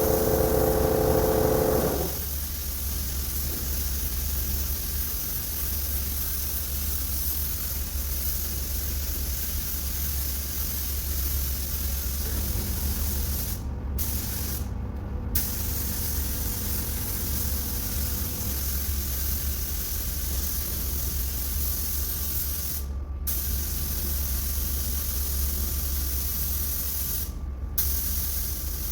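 Paint spray gun hissing steadily as silver paint is sprayed, with the hiss dropping out briefly about four times, over a steady low hum. A louder droning tone stops about two seconds in.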